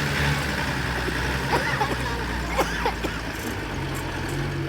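A vehicle engine idling steadily with a low, even hum, and a few brief squeaky glides about halfway through.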